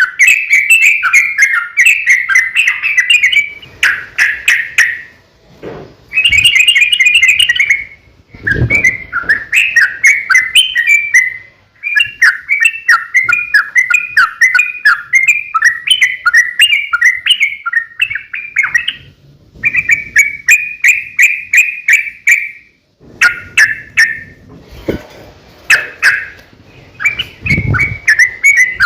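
Yellow-vented bulbul song: long, rapid runs of bubbling chattering notes in bouts of a few seconds, broken by short pauses, with a few dull low thumps in between.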